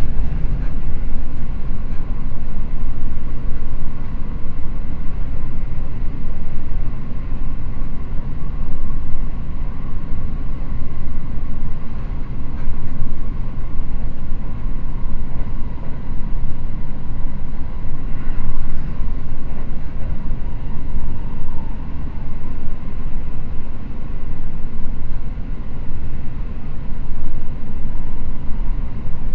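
Seibu Red Arrow limited express train running steadily at speed without stopping, heard from inside the passenger car as a continuous low rumble of wheels on rails.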